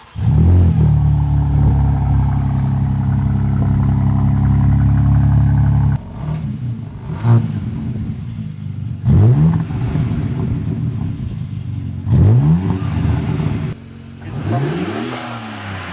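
Car engine running at a steady drone, then accelerating several times, each time rising in pitch.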